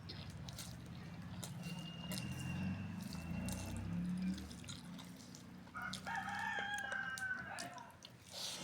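A rooster crows once, about six seconds in, a call of about two seconds, heard over soft clicks of someone eating close by.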